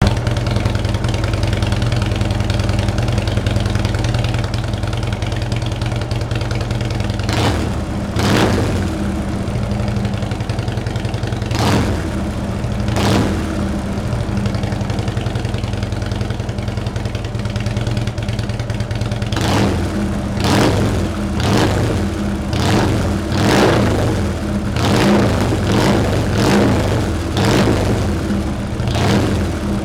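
Harley-Davidson Ultra Classic V-twin idling through Freedom Performance Sharktail slip-on mufflers on the stock exhaust, with short throttle blips. There are a few blips in the first half and a quick run of them through the last ten seconds.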